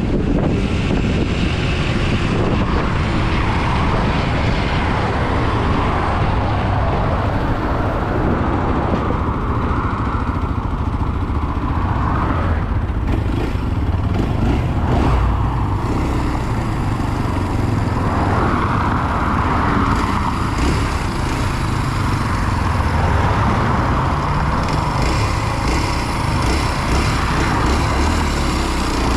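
Kawasaki KLX230 SM's single-cylinder four-stroke engine running, its engine speed rising and falling.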